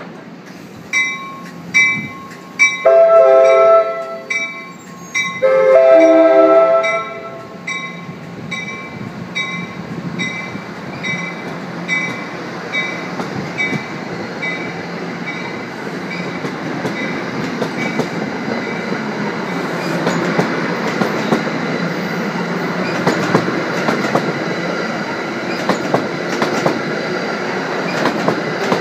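A level-crossing bell rings about twice a second while an NJ Transit electric commuter train sounds two horn blasts, each over a second long. The bell stops about halfway through, and the passing train's rumble and wheel clicks grow steadily louder.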